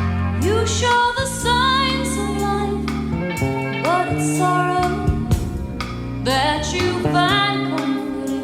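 A live rock band playing, with a woman singing lead over bass and drums, her held notes wavering with vibrato. It is heard from a cassette taping of an FM radio broadcast.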